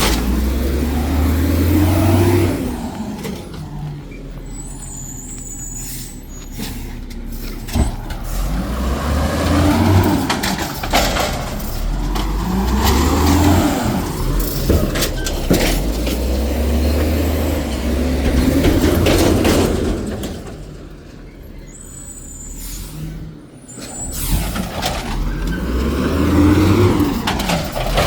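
E.J. Harrison garbage truck's diesel engine revving up and down over and over as it works on a load of trash, with two quieter spells between surges and short high hisses of air.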